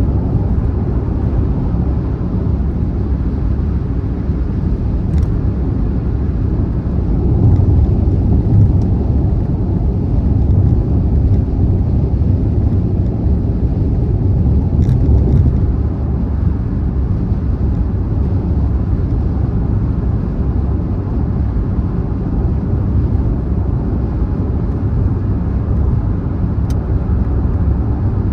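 Car driving at speed on a motorway: a steady, deep road and tyre rumble, a little louder for several seconds in the middle, with a few faint ticks.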